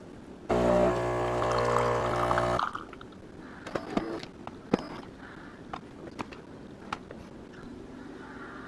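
Philips 3200 LatteGo super-automatic espresso machine's pump buzzing steadily for about two seconds, then stopping, followed by quieter dribbling of liquid into the cup with a few small clicks.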